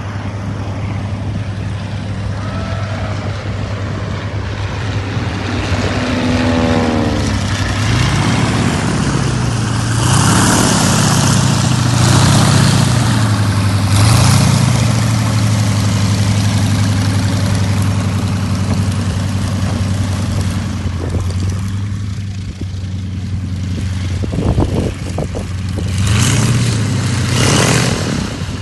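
Piston engines of two Boeing Stearman biplanes and a Cessna L-19 Bird Dog flying past in formation. The drone rises and falls in pitch as the aircraft pass, with gusts of wind noise on the microphone.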